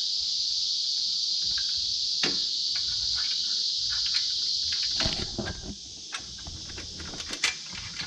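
A steady, high insect chorus that fades about five seconds in, with scattered light clicks and clinks.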